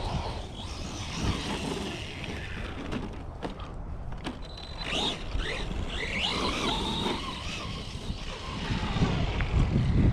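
Electric RC cars' brushless motors whining, rising and falling in pitch as they speed up and slow down, over a low rumble that grows louder near the end.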